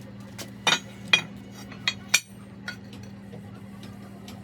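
About half a dozen sharp metal-on-metal clinks of tools or parts being handled, spread over the first three seconds, with a steady low hum underneath.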